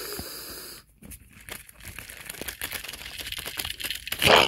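Rustling with many small clicks, as of objects being handled and moved about, ending in one short loud bump near the end.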